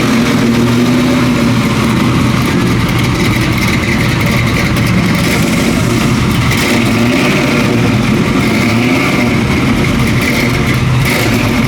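Car engine running steadily, its pitch wavering slightly up and down.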